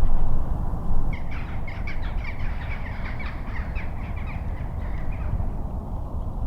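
A bird's harsh, rapid chattering call, a quick run of rasping notes starting about a second in and lasting some four seconds, over a steady low rumble.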